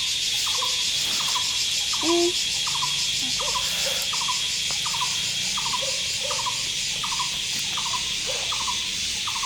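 Steady, dense chorus of crickets and other insects, high and unbroken, with short falling chirps repeating about twice a second from another calling animal and a brief louder, lower call about two seconds in.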